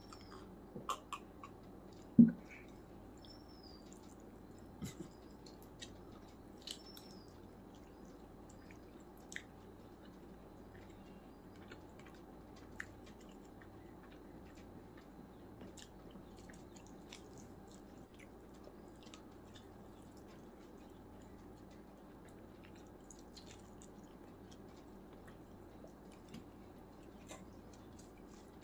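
Close-up eating sounds from a person eating chicken biryani by hand: soft scattered chewing and mouth clicks. About two seconds in there is a single loud knock, a glass drinking tumbler set down on the table.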